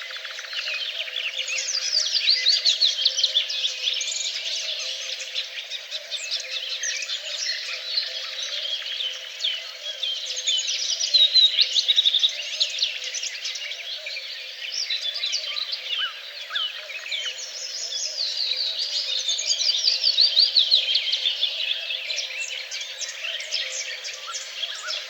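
A chorus of songbirds singing at once: dense, overlapping rapid chirps and trills that swell and fade in waves, over a faint steady background hum.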